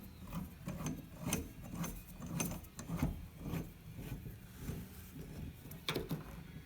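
Plumbing parts being handled and pushed together, a service valve fitting and PEX pipe, giving irregular small clicks and rubbing, with a sharper click near the end.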